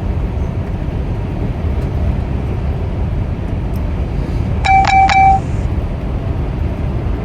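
Steady car road noise heard from inside a moving car. About five seconds in comes a short electronic chime: three quick tones that end in a held note.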